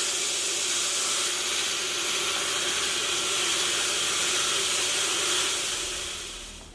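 Power saw cutting through wood: a steady, dense hissing noise with a held hum underneath, fading out near the end.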